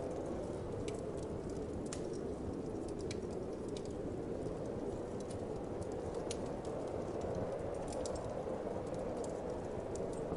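Wood fire crackling in a fireplace, with irregular sharp pops and snaps, over a steady low whoosh of winter wind.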